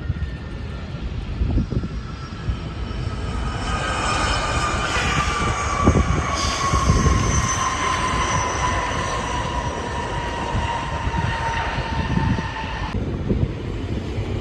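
Arriving jet airliner passing on approach: a whine made of several tones sliding slowly down in pitch over a low rumble. It builds from about four seconds in and cuts off suddenly near the end.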